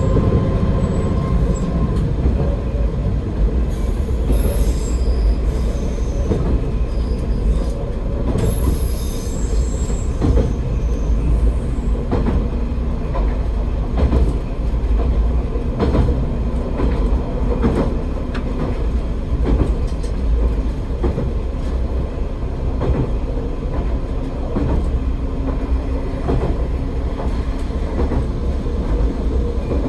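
AN-8800 series diesel railcar running along the line, a steady low engine and rolling rumble with the wheels clicking over rail joints every couple of seconds. Brief high wheel squeals come a few seconds in.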